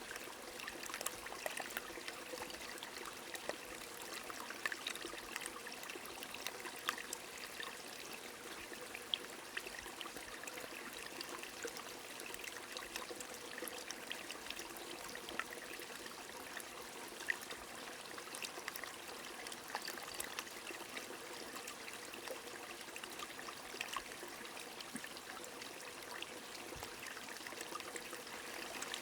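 Steady rain falling with a flowing stream: an even rush of running water dotted with many small, scattered drop ticks.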